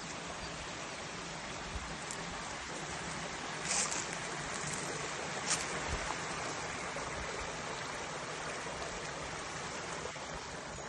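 Steady rush of flowing stream water, with a couple of brief clicks near the middle.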